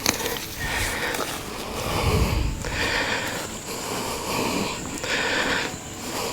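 A man breathing heavily close to the microphone, a rasping in-and-out breath about once a second, as he exerts himself.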